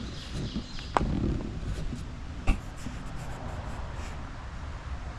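Rustling handling noise with two sharp clicks, one about a second in and a louder one about two and a half seconds in.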